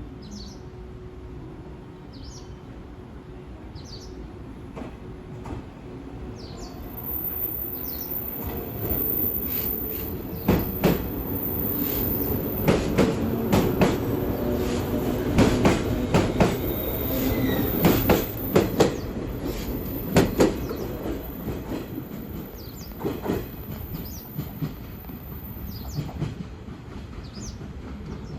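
Train passing close by, its wheels clacking over rail joints in a quick run of beats. The sound builds, peaks in the middle, then fades away.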